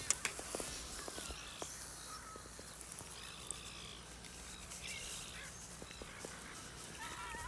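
Faint birds calling now and then: short repeated chirping calls a few seconds apart over a quiet lakeside background, with a few light clicks.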